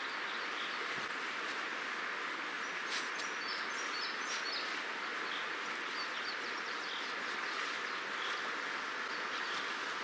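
Small birds chirping, a quick run of short high notes about three to four seconds in and a few fainter ones later, over a steady outdoor background hiss.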